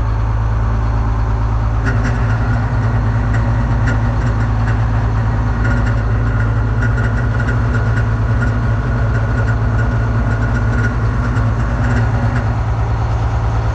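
Detroit Diesel 6-71 two-stroke inline-six diesel running steadily at idle. About two seconds in it picks up slightly and a higher whine joins in, easing off again near the end.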